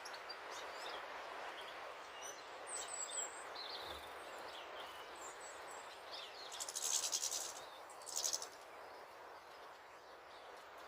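Small birds chirping sporadically around a garden bird table over a steady background hiss. About two-thirds of the way through come two short, loud rattling bursts, the first longer than the second.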